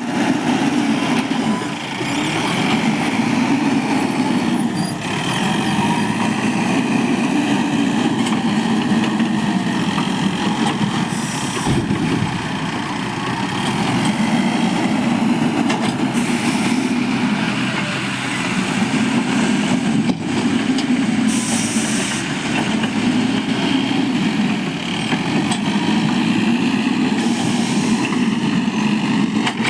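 Diesel engine of a Mahindra backhoe loader working as it loads sand, revving up and easing off in slow repeated cycles. Short hisses come every five seconds or so.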